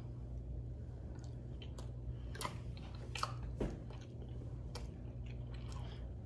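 People chewing bites of soft protein snowball cookies: faint, scattered mouth clicks and small crunches, over a steady low room hum.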